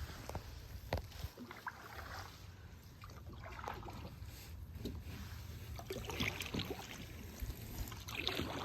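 Paddles dipping and pulling through calm water, with water trickling and dripping off the blades and small knocks of the paddles against the boat.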